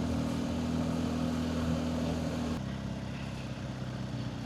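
Motorcycle engine running steadily while riding, with a rush of wind noise. Its tone changes abruptly about two and a half seconds in.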